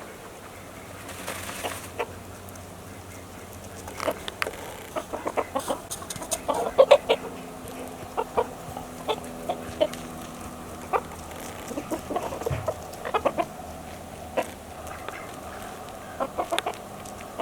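Chickens clucking: a run of short, irregular clucks, busiest and loudest near the middle.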